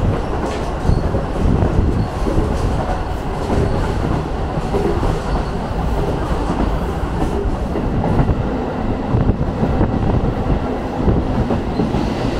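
Furano Biei Norokko sightseeing train running, heard from inside its open-windowed carriage: a steady loud rumble of the wheels on the rails, with clattering over the rail joints.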